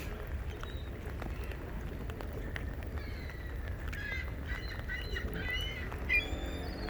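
Seagulls calling in a quick run of short squawks from about halfway through, over a steady low rumble.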